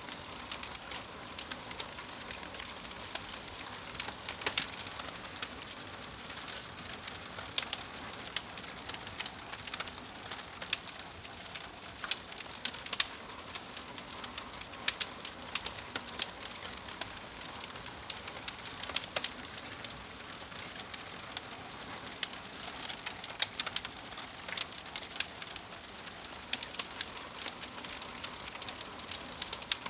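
Fire crackling: a steady soft hiss with frequent, irregularly spaced sharp pops and snaps.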